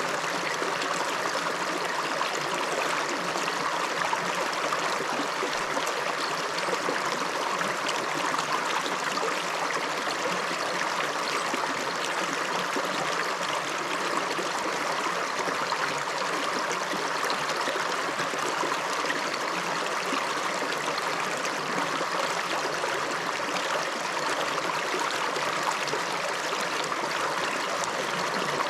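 A small upland river running over stones: steady rushing and babbling water.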